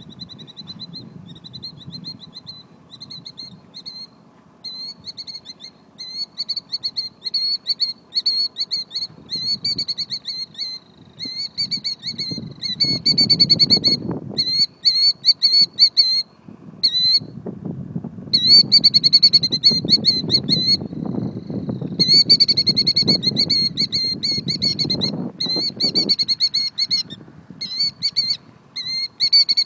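Killdeer calling: a long series of short, shrill, repeated notes, faint at first and then louder and almost unbroken from about twelve seconds in. Patches of low rumbling noise come under the calls about thirteen seconds in and again for most of the stretch from seventeen to twenty-six seconds.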